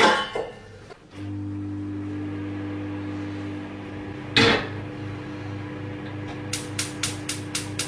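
A kitchen appliance starts humming steadily about a second in. There is a single loud clatter midway, and near the end a rapid run of sharp clicks, about four a second, begins.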